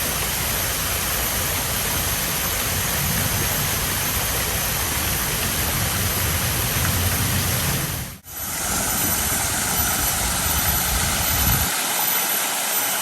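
Rushing water of a small waterfall: a steady noise, broken briefly by a drop-out about eight seconds in.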